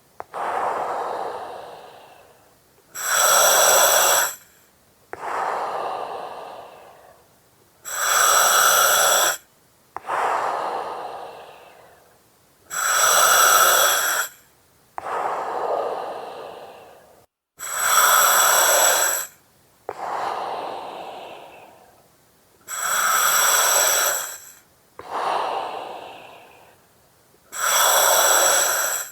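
Slow, regular breathing through an oxygen mask and regulator, about six breaths. Each breath is a loud gas hiss of about a second and a half, followed by a softer breath out that fades away.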